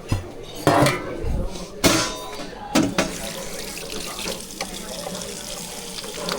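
Water running steadily from a kitchen tap into a sink, with four sharp knocks of something being set down or handled in the first three seconds.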